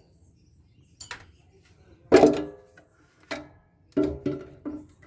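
Metal clanks and knocks from tools and parts while a solar inverter is taken apart: about six strikes, the loudest a little after two seconds in with a short metallic ring, and a quick cluster of knocks near the end.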